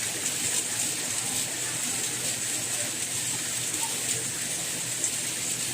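Steady soft rain: an even hiss, brightest in the high range, with faint scattered drop ticks.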